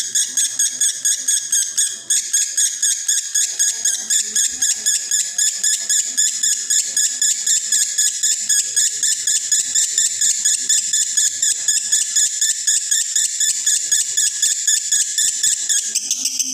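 Male lovebird in breeding condition singing a long, unbroken 'konslet' chatter of rapid high chirps, about five a second.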